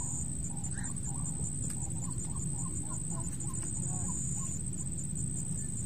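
A bird calls in a quick run of short, bending notes, about four or five a second, from about two seconds in. Under it are a steady low rumble and a constant thin high-pitched buzz.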